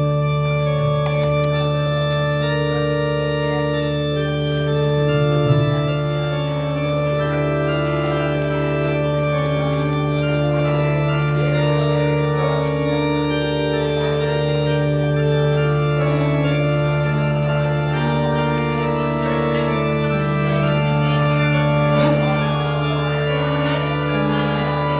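Church organ playing the postlude: sustained chords that change slowly over a long held bass note, beginning suddenly right at the start.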